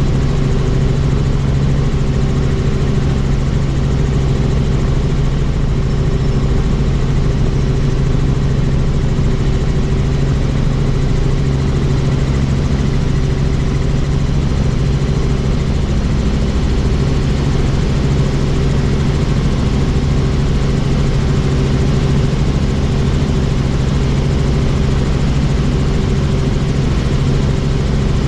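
Helicopter in flight heard from on board: a loud, steady drone of rotor and engine with a constant low hum.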